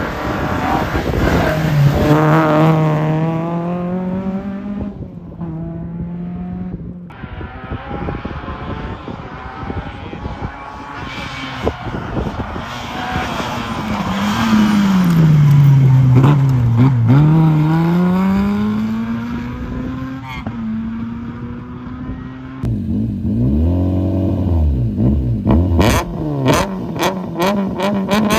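Historic rally car engines revving hard as the cars pass, pitch climbing and dropping through gear changes, in several short passages cut one after another. Near the end there is a rapid run of sharp cracks.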